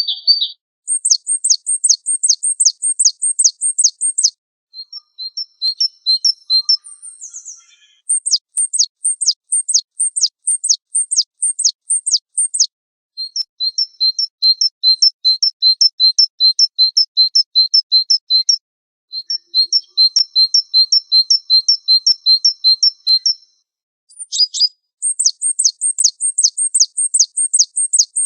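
Small songbird song, high-pitched, in phrases of a few seconds with short gaps between them. Some phrases are rapid series of quick downward-sweeping notes; others are runs of short, evenly repeated chipping notes.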